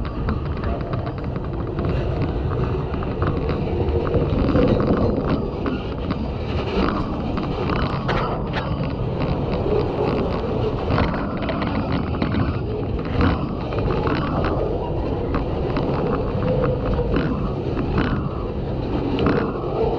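Freight cars of a slow train rolling past close by: a steady rumble of steel wheels on rail, broken by irregular clicks and clunks. Rain on the microphone housing muffles and distorts the sound.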